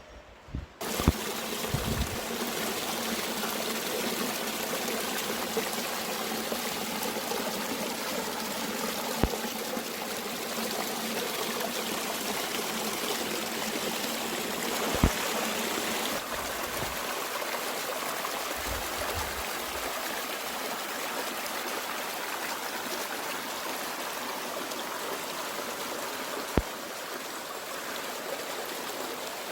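Mountain stream flowing and trickling steadily, starting about a second in, with a few sharp isolated clicks and brief low thumps scattered through.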